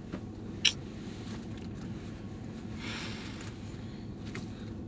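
Steady low hum of a car's running engine heard inside the cabin, with a sharp click under a second in and a short hiss about three seconds in.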